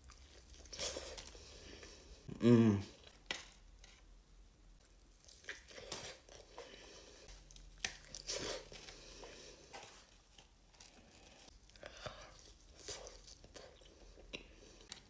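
Close-up mukbang eating sounds of a fried chicken tender being bitten and chewed: scattered soft crunches and wet mouth noises. A short vocal sound from the eater, the loudest moment, comes about two and a half seconds in.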